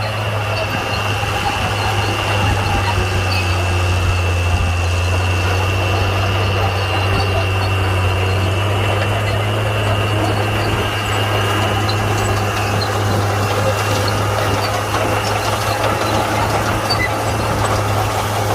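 Komatsu D41P crawler bulldozer's diesel engine running steadily under work, a deep drone with a thin high whine over it that fades out about two-thirds of the way through.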